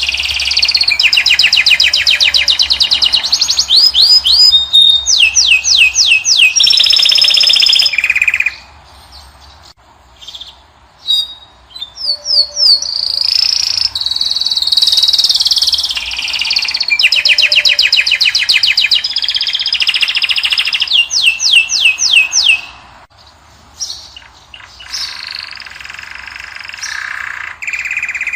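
Caged finch singing a long, loud song of rapid trills and clear whistled notes. There are two long phrases with a short break between them, then quieter song near the end.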